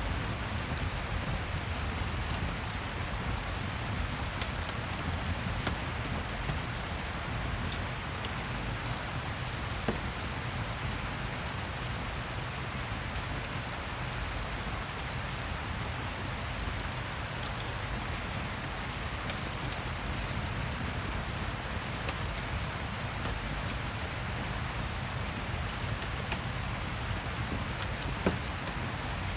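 Steady rain ambience mixed with a crackling fireplace, with a couple of sharper pops from the fire.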